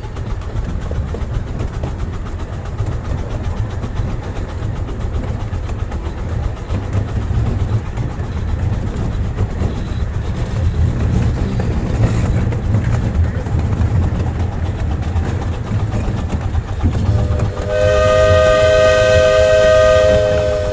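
Miniature steam train running along the track, a steady low rumble with wheel clatter. Near the end a steam locomotive whistle blows, a chord of several steady notes held for a few seconds.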